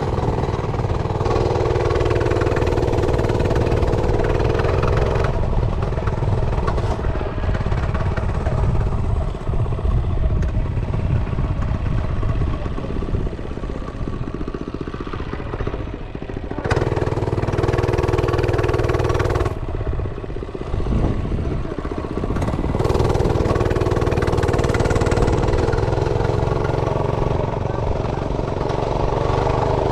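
Realtree RT100 mini bike's small single-cylinder engine running under way. Three times it holds a steady, stronger pitch for a few seconds, then eases off between, as the rider opens and closes the throttle.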